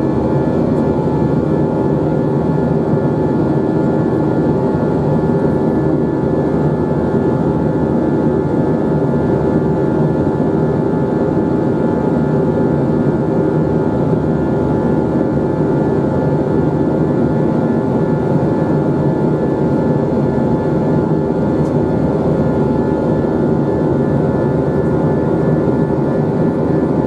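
Steady jet engine and airflow drone inside an Airbus A321 cabin, heard from a window seat.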